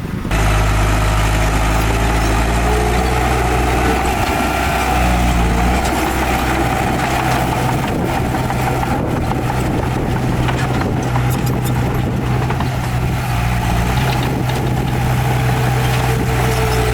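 Heavy diesel engine of an earthmoving machine running steadily at a low, even pitch, starting abruptly just after the start.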